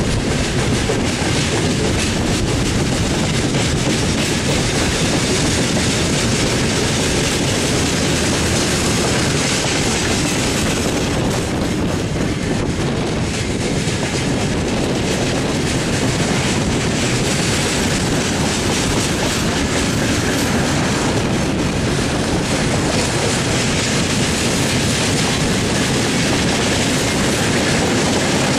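A train rolling past close by, its wheels clattering over the rail joints in a steady loud rush that lasts the whole time.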